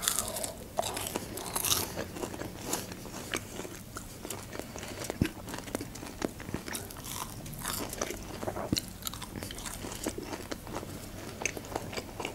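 Close-miked chewing of crisp fried food, starting with a bite into a breaded onion ring: many small crunches and mouth clicks, with a few louder crunches along the way.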